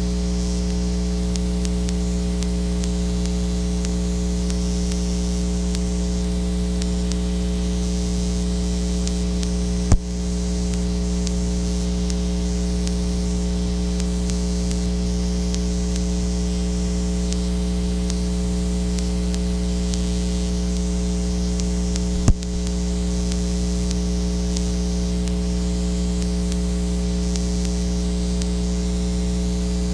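Steady electrical mains hum with a high hiss, broken by two sharp clicks, one about ten seconds in and another about twenty-two seconds in.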